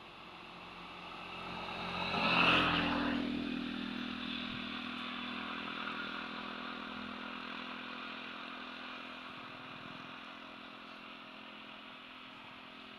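A motor vehicle's engine running, swelling to its loudest about two and a half seconds in and then slowly fading.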